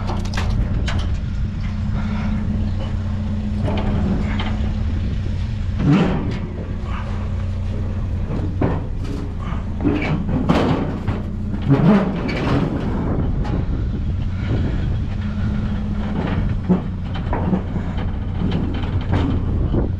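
Pickup truck engine idling steadily, with scattered knocks and clanks of metal as scrap is handled, the loudest just before the middle and a few seconds later.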